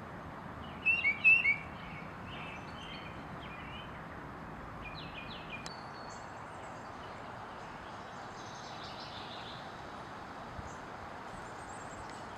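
Tufted titmouse giving its whistled peter-peter call: a quick run of about four loud, clear, down-slurred notes about a second in, then fainter, scattered call notes, over a steady background hiss.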